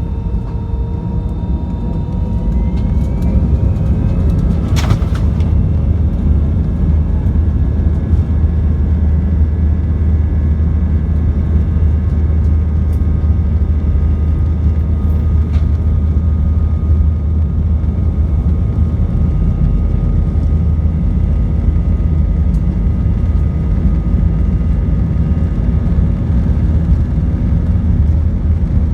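Airbus A319 jet engines spooling up to takeoff thrust, heard from the cabin: a rising whine over a loud, steady low rumble that swells over the first few seconds and then holds. One sharp knock comes about five seconds in.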